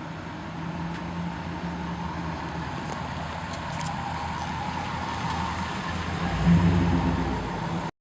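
A car engine running steadily, growing louder for a moment near the end, then the sound cuts off abruptly.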